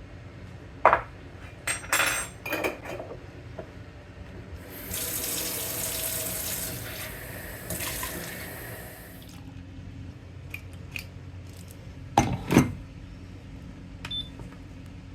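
A kitchen tap runs for about four seconds in the middle, between sharp clinks and knocks of dishes or glass being handled at the sink.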